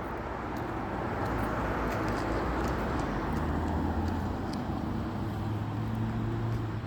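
Road traffic: a steady rush of passing vehicles with a low engine hum that swells about halfway through and again near the end.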